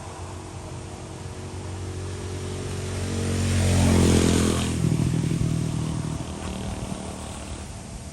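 A motor vehicle driving past: its engine grows louder, passes about four seconds in with a brief rush of tyre and air noise, then drops in pitch and fades away.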